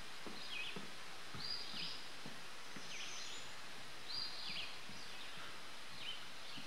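A songbird calling over and over, short high calls that drop in pitch, about one a second, over a steady hiss of woodland background.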